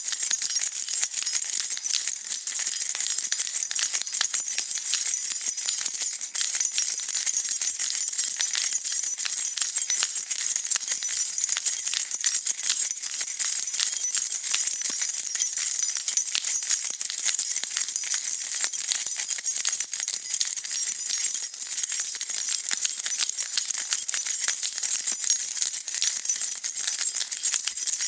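A bunch of metal keys on a key ring jingling as they are shaken, a steady dense jangle of tiny high clinks without pause.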